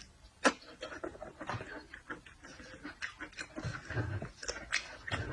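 Close-miked eating sounds: chewing and lip-smacking on seafood, with many sharp clicks and cracks and a few soft low thuds near the end.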